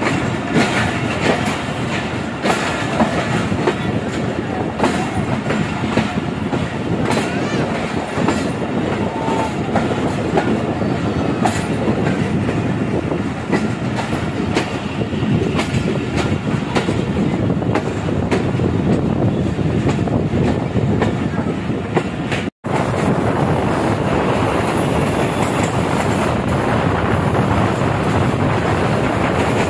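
Passenger train running, heard from an open coach doorway: a steady rumble of the coaches with the wheels clacking over rail joints. After a sudden cut about three-quarters of the way through, the running noise turns steadier and hissier.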